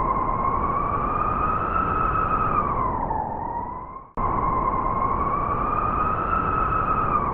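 Howling blizzard wind over a rushing noise. A single whistling tone rises slightly and then dips, and the same swell comes round twice in an identical pattern, like a looped wind recording.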